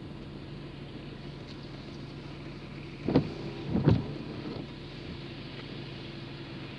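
Steady engine and road hum heard inside a moving car's cabin, with two short louder sounds about three and four seconds in.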